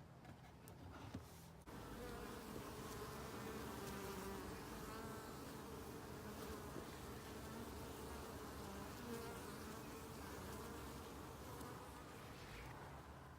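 Many honeybees buzzing around a hive in a steady, dense hum. It jumps louder about two seconds in.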